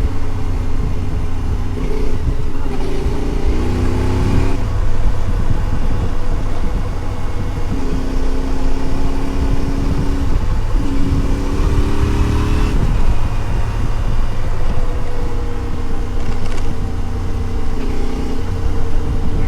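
Adventure motorcycle's engine running under way, its revs rising and falling several times as the rider accelerates and changes gear, over a heavy low rumble.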